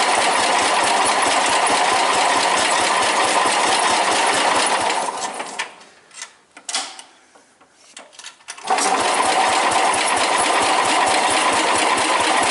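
Engine of a Suburban 10 garden tractor being cranked over by its starter without catching, a fast, even rhythm. The cranking stops about five and a half seconds in, a few clicks are heard in the pause, and it starts again nearly three seconds later. This is a hard cold start that fails to fire, which the owner puts down to a fouled spark plug.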